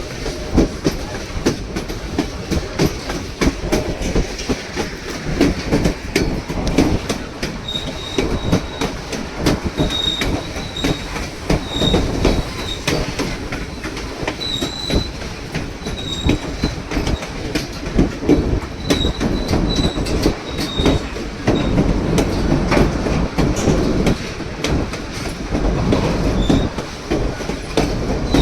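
White Pass & Yukon Route narrow-gauge passenger train running on the rails, its wheels clattering over the track with a low rumble. From about a third of the way in, short high-pitched wheel squeals recur every second or two.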